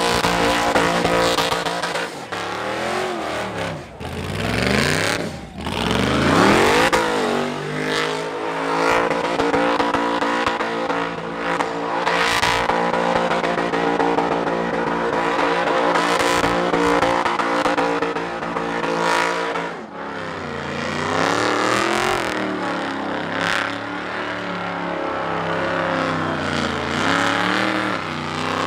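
An Ultra4 race car's supercharged V8 is revving hard through a burnout, with the tyres spinning. The revs swing up and down a few seconds in, hold high and steady for a long stretch, then dip and climb again several times near the end.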